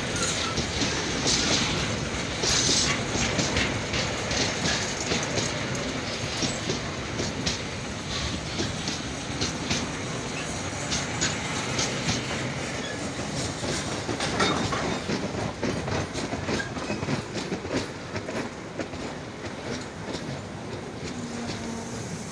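Freight train wagons rolling past at close range, covered hopper wagons and then empty container flat wagons, their wheels clattering over the rail joints with many sharp knocks. The clatter is loud at first and slowly eases toward the end.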